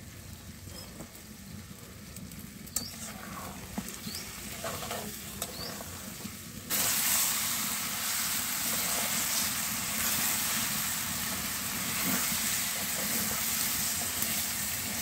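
Chicken pieces frying in tomato-onion masala in a metal pan, sizzling, with a metal spatula stirring and scraping the pan. The sizzle is fainter at first, with a few scrapes and knocks, then jumps abruptly louder about seven seconds in.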